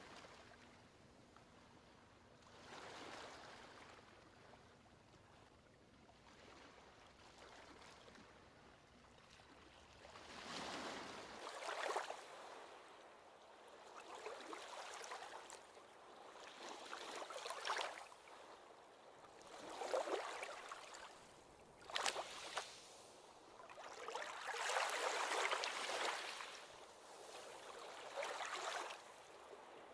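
Ocean waves washing onto a beach, each wave a swell of surf a second or two long that rises and falls again. The waves are soft for the first ten seconds or so, then come in louder.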